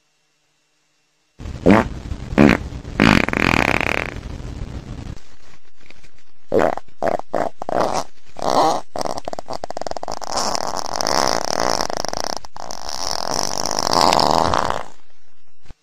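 Comic fart sounds: a few short loud blasts starting about a second and a half in, then one long sputtering fart running about ten seconds that cuts off abruptly near the end.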